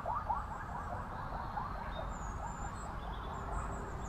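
A bird calling in a rapid series of short rising notes, about four or five a second, that fade out about three seconds in, with fainter high-pitched calls above.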